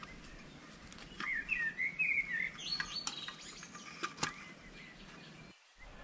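A small bird chirping and warbling in a quick run of notes about a second in, with a few sharp clicks in between.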